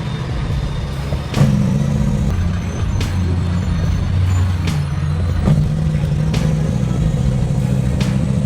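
Heavy vehicle engine running steadily with a low drone. Sharp knocks or clanks come every second or so.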